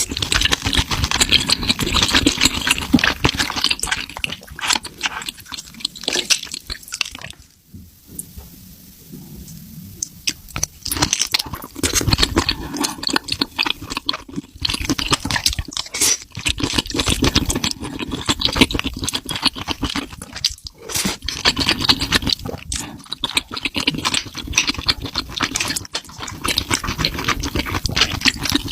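A person eating: wet chewing with crunches and clicks, in a dense run that eases off for a couple of seconds about eight seconds in.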